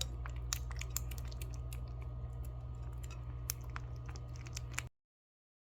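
Hungry kittens eating from food cups: a quick, irregular run of small wet clicks and smacks of chewing and lapping, over a steady low hum. Everything cuts off suddenly near the end.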